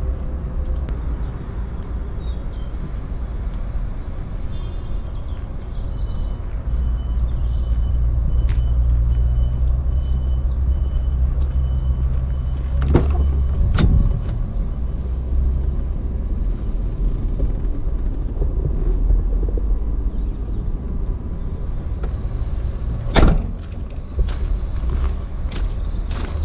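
Truck tail lift's electric-hydraulic pump running with a steady low hum for about ten seconds, starting about six seconds in, with two heavy metal clanks as it works and another clank later on. A faint, evenly repeated beep sounds during the first part of the run.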